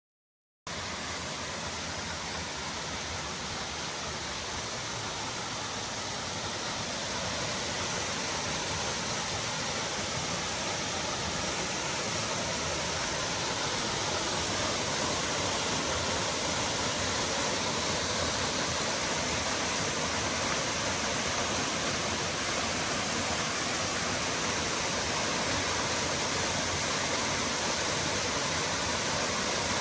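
Waterfall rushing, a steady even roar of falling water that grows gradually louder over the first dozen or so seconds.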